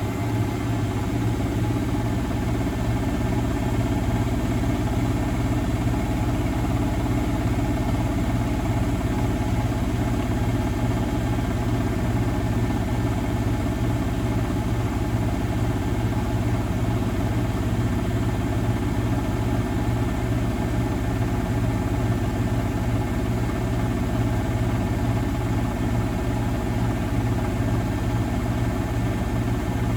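Miele Novotronic W921 front-loading washing machine running with a steady, unbroken motor hum and drum whir.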